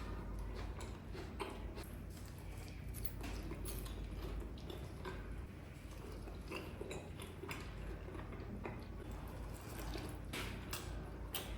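Close-miked chewing and biting of crispy fried chicken in cream sauce: irregular crunchy crackles mixed with wet, saucy mouth sounds.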